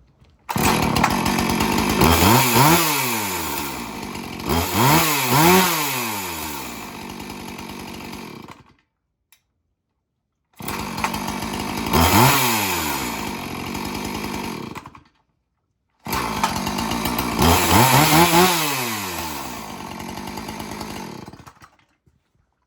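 Old gasoline chainsaw running and being revved: several times the engine pitch rises sharply and falls back to idle. The sound comes in three stretches, each cut off abruptly.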